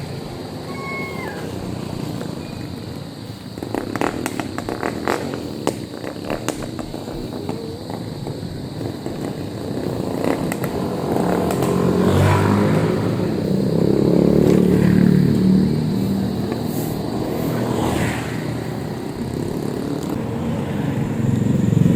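Street traffic heard from a moving e-bike, with motorcycle engines getting louder in the middle as they come close. A quick run of rattling clicks comes about four seconds in.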